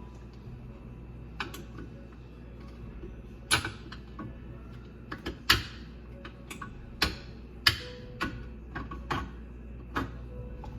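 About a dozen sharp, irregular clicks and knocks of hard objects, tools or rocks, against a clogged garbage disposal as it is worked on, over a faint steady low hum.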